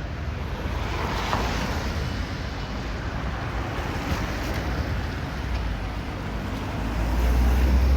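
City street noise: a steady rushing hiss with a deep rumble that builds near the end.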